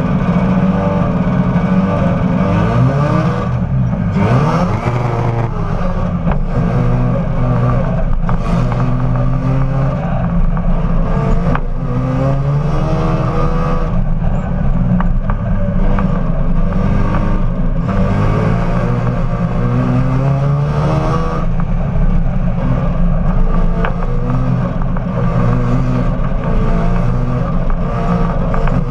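Supercharged rotary engine of an Austin-Healey Sprite race car under hard acceleration. Its pitch climbs through each gear and drops at every shift, over and over, heard from inside the open cockpit.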